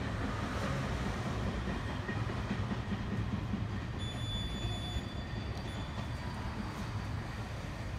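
Train rumbling at the station: a steady low rumble that slowly fades, with a brief high tone about halfway through.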